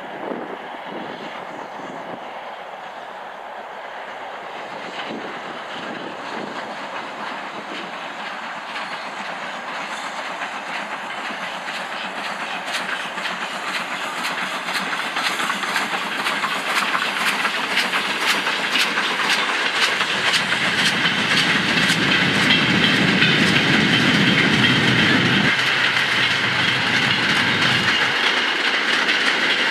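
Steam-hauled goods train of vans and wagons passing, the wagon wheels clicking rapidly over the rail joints. It grows steadily louder as the train comes by, with a heavier rumble for several seconds near the end.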